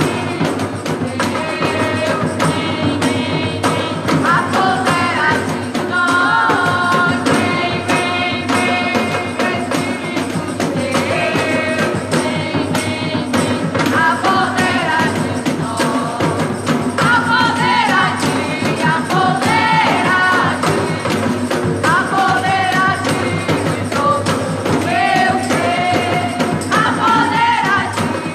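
Gospel band music: sung vocal lines over a steady driving beat of drums and percussion.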